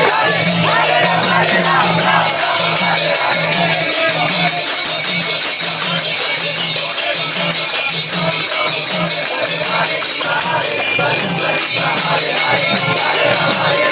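Kirtan music with a drum beating a steady rhythm and hand cymbals jingling continuously.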